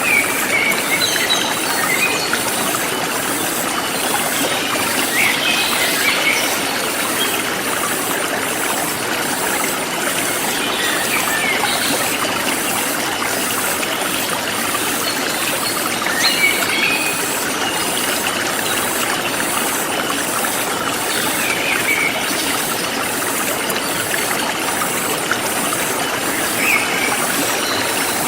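Forest stream flowing steadily, with birds giving short chirps every few seconds and a high insect call pulsing about once a second.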